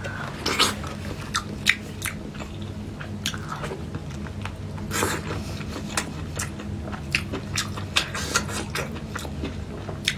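A person chewing and biting food close to the microphone, with irregular sharp crunches and wet mouth clicks.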